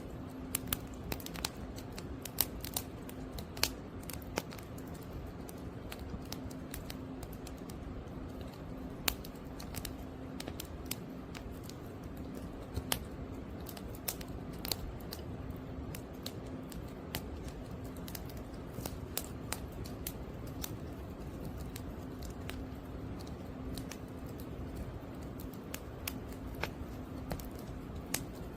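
Burning firewood crackling, with irregular sharp pops and snaps over a steady low rush.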